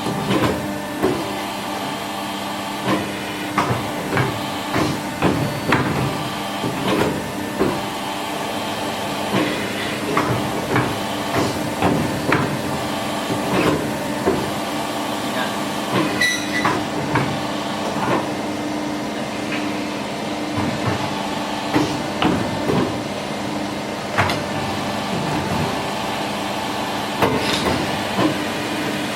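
CNC pipe bending machine running through its automatic cycle: a steady hum from its hydraulic unit, with repeated metallic clanks and knocks, roughly one or two a second, as it clamps, feeds and bends the tube.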